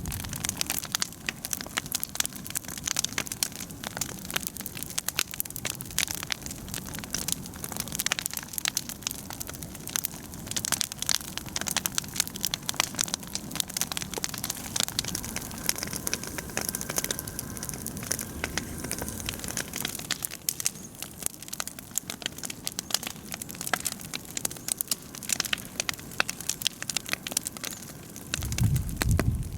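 Large bonfire of brush and tree branches burning, with dense, irregular crackling and popping over a low, steady rumble.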